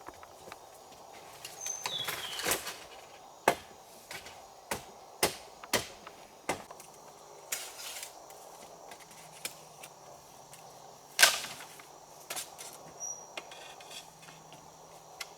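Irregular sharp chopping strikes on wood, about a dozen spaced a half-second to a few seconds apart, the loudest near the end. A brief bird chirp sounds twice.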